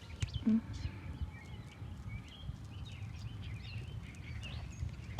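Outdoor ambience: faint, scattered bird chirps over a steady low rumble, with a few light clicks and a brief soft thump about half a second in.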